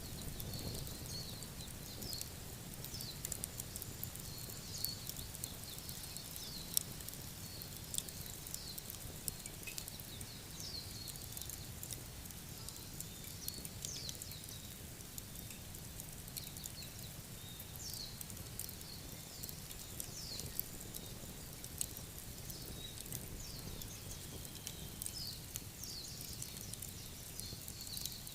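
Crackling wood fire: irregular sharp pops and snaps over a low steady rumble, with repeated short, high, falling chirps from an animal throughout.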